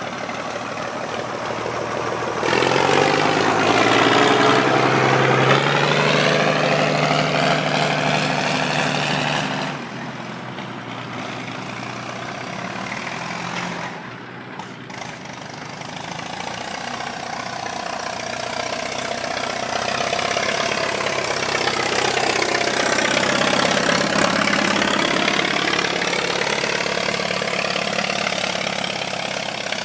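Two old diesel tractors, a Fordson Super Major and a Leyland 255, driving past one after the other. Each engine note swells as it comes close and fades as it goes by; the first pass starts a couple of seconds in and is the louder, and the second is near the end.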